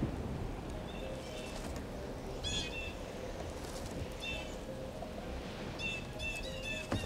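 Short, high bird calls repeating every second or so, over a low steady hiss, with a single sharp click near the end.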